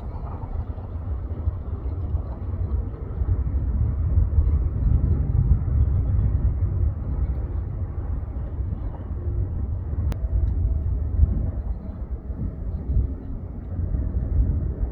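Low, steady rumble of a cargo jet landing, heard from a distance. It swells a little a few seconds in, and there is a single sharp click about ten seconds in.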